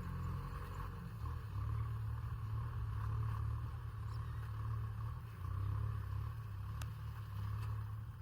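Kubota M6040SU tractor's diesel engine running steadily under load while plowing, a low drone that swells and eases slightly.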